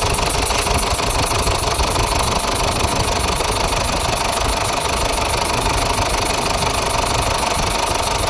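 Ford Ranger 2.5-litre diesel engine idling steadily, with a fast, even ticking on top of the running.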